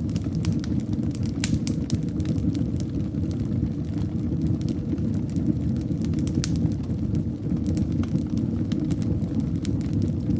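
Fire burning in a fireplace: a steady low rumble of flames with scattered sharp crackles and pops, a couple of them louder.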